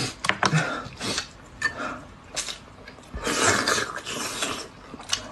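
Close-up eating sounds: noodles slurped in breathy bursts, the longest about three seconds in, between short wet clicks of chewing.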